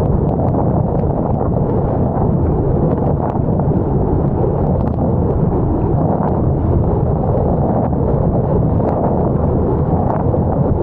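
Strong wind buffeting a camera microphone: a loud, steady low rumble with no let-up.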